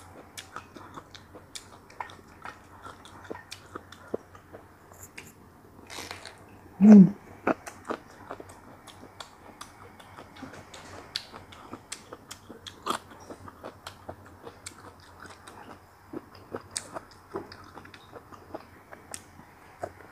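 Close-up eating sounds: wet chewing and lip-smacking with many small mouth clicks. About seven seconds in there is one short, loud voiced sound that falls in pitch.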